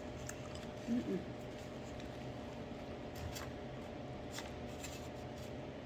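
A person eating a chili dog: quiet chewing and scattered small mouth clicks, with a short hummed sound about a second in, over a faint steady hum.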